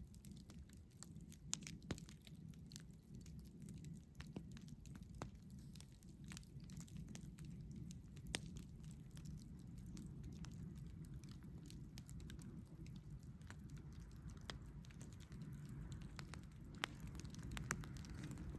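Campfire crackling: scattered sharp pops and snaps, a few louder than the rest, over a low steady rumble.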